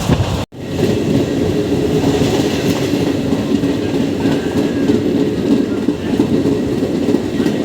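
MEMU electric train running along the track, a steady rumble of wheels on rail with a clickety-clack and a steady hum. The sound cuts out for an instant about half a second in, then resumes.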